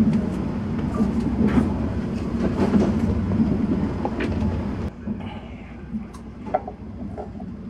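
Cabin noise of the Kintetsu Hinotori electric express train running: a steady low rumble with scattered clicks. The level drops abruptly about five seconds in, leaving a quieter rumble with a few clicks.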